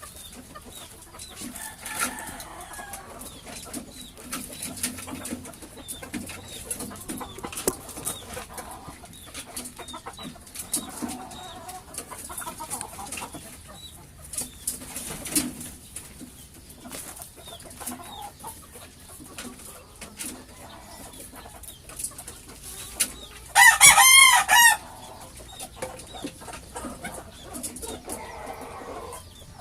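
Bantam chickens clucking, with faint high peeps throughout, and a bantam rooster crowing once, briefly and loudly, about 24 seconds in.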